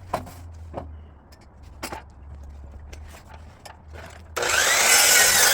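A few light knocks, then about four seconds in a DeWalt DWS779 12-inch sliding miter saw starts up loud and cuts through a piece of wood blocking, its motor whine rising as it spins up and then holding steady.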